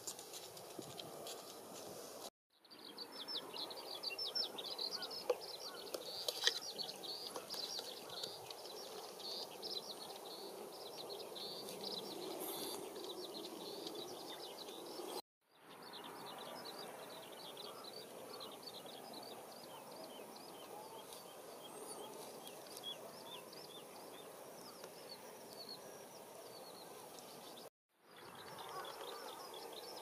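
Lakeside ambience of small birds chirping in fast, dense series over a faint steady background hum. The sound cuts out for a moment three times: a couple of seconds in, about halfway, and near the end.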